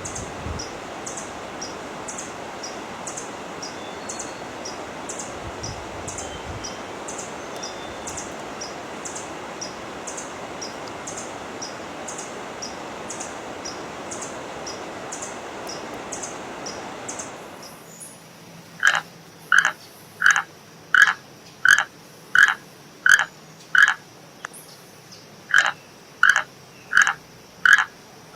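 A steady rushing noise with faint, high, evenly repeated chirps. About seventeen seconds in it gives way to an animal, most like a frog, calling over and over in short, loud croaks at about one and a half a second.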